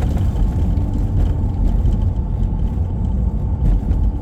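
Steady low rumble of road and engine noise inside a vehicle's cabin while driving.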